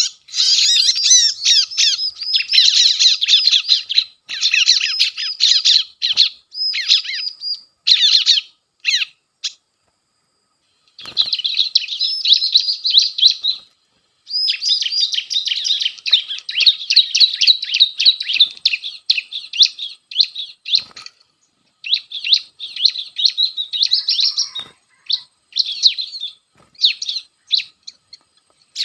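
Ciblek (bar-winged prinia) calls played as a lure: the 'ciblek kejepit' distress call, rapid strings of high chirps. The strings break off abruptly twice, for about a second and a half near the middle and briefly a few seconds later.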